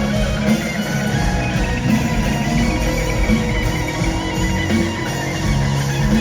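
Live rock music: an electric guitar solo played in concert over a steady low end.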